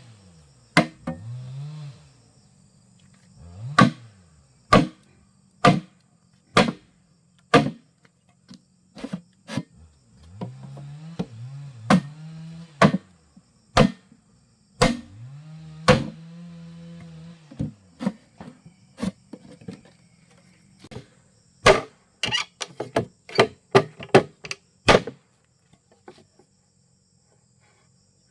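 Repeated sharp blows of a hand tool on wood, mostly about one a second, with a quick run of blows near the end. A low tone rises and falls a few times between the blows.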